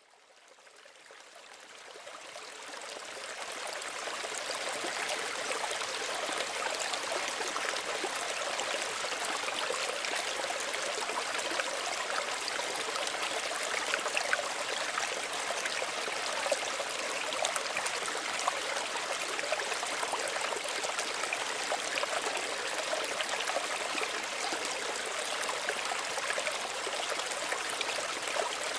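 Small stream running steadily, fading in over the first few seconds.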